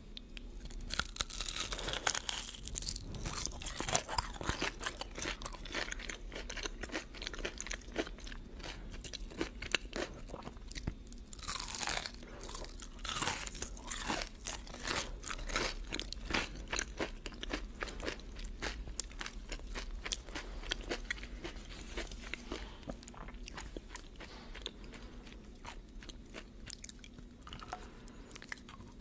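A person eating close to a microphone: bites and chewing with many crisp crunches, from crispy hash browns, bacon and soft pancakes. The crunches come thick and fast in the first half and thin out toward the end.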